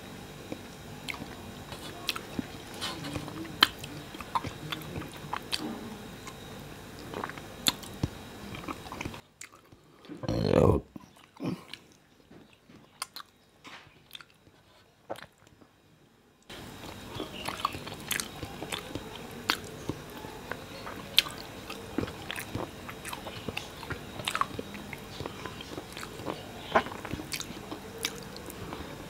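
A person chewing a mouthful of rice and fish curry close to a clip-on microphone: wet chewing with many small lip-smacks and clicks. About ten seconds in comes one louder, brief low mouth sound.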